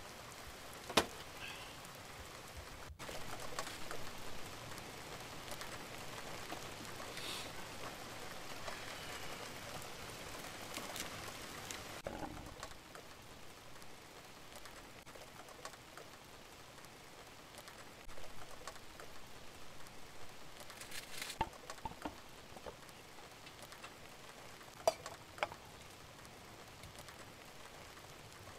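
Rain falling steadily, with a few sharp clicks and knocks from cookware being handled.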